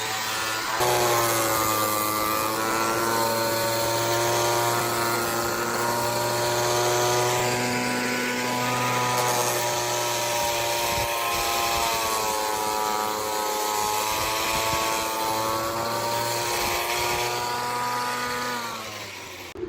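Electric power tool motor running with a steady whine, its pitch sagging and recovering under load several times, then dropping as it winds down near the end.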